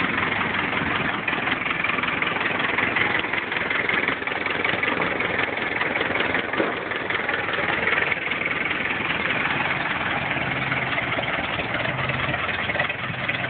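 1931 Ford Model A's four-cylinder flathead engine idling slowly and steadily, running again after about 23 years laid up.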